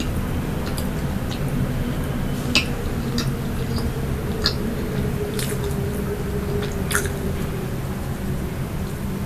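Close-miked chewing of soft pastry, with a few scattered sharp mouth clicks over a steady low hum.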